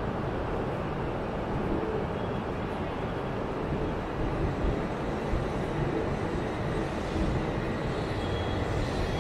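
A train running on the station tracks: a steady, low noise with a hiss above it, not rising or falling.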